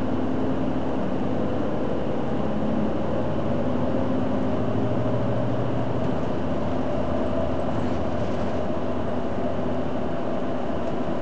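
Hino Blue Ribbon City Hybrid bus under way, its drivetrain running steadily over road noise, with a tone that rises slowly.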